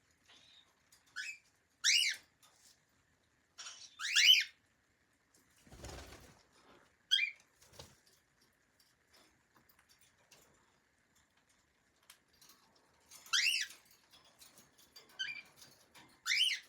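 Cockatiel giving short whistled chirps, about seven of them in two clusters with a quiet spell of several seconds between; the loudest comes about four seconds in. A brief low rustle or thump about six seconds in.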